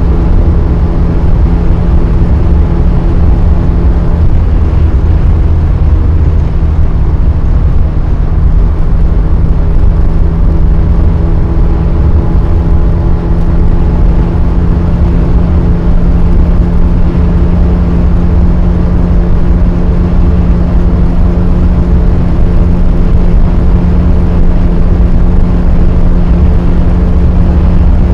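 1992 Mercedes-Benz 200 E W124's M102 2.0-litre four-cylinder engine running at steady high revs at high cruising speed, heard from inside the cabin with low tyre and road rumble under the engine tone.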